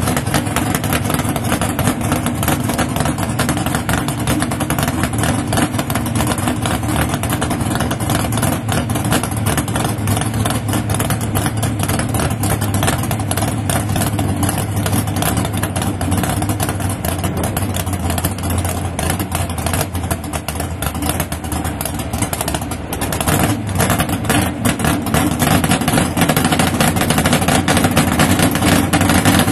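Drag-racing car engines running with a rapid, choppy exhaust beat, dipping a little past the middle and getting louder again later on.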